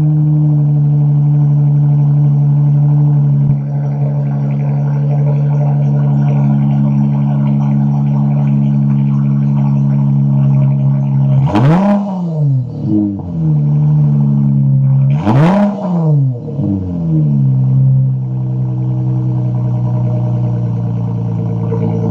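V6 Dodge Challenger with an aftermarket BigBoz 5 exhaust idling steadily, blipped twice about halfway through, each rev climbing and falling back to idle within a second or two.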